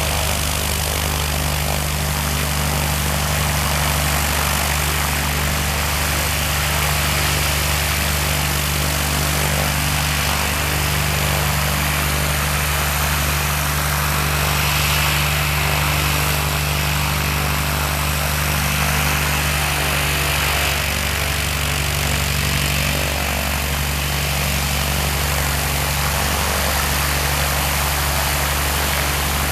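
Van's RV-10 light aircraft's six-cylinder piston engine running steadily at idle, its propeller turning, with a brief rise in hiss about halfway through.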